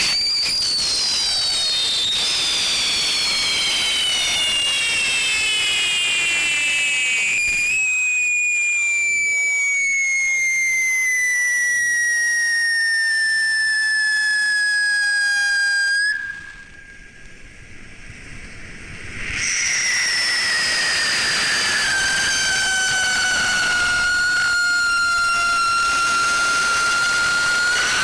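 A large whistling firework burning with a loud, continuous shrill whistle over a hiss, the pitch sliding slowly downward. The whistle cuts off abruptly about sixteen seconds in and starts again about three seconds later, falling and then holding steady.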